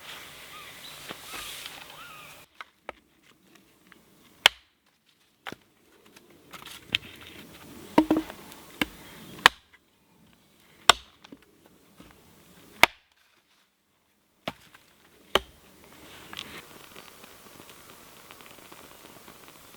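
A tool striking wood in about a dozen sharp, separate blows, one to two seconds apart, broken by sudden drops to silence. A soft, steady outdoor hiss returns near the end.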